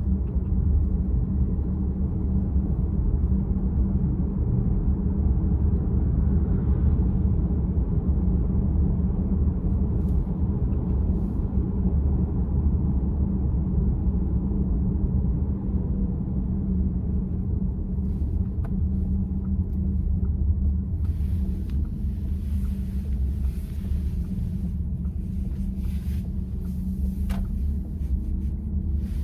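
Steady low road and tyre rumble inside the cabin of a Volkswagen ID.4 electric SUV while driving, with a few faint ticks near the end.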